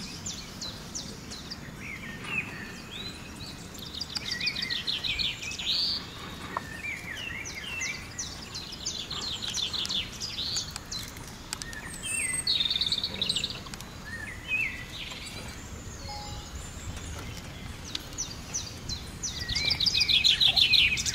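Several forest birds calling and singing; a fast series of high chirping notes comes four times, with shorter slurred whistles in between, over a steady background hiss.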